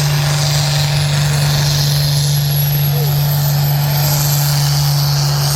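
A pulling vehicle's engine running loud at high, steady revs, with a thin high whine that rises and then holds.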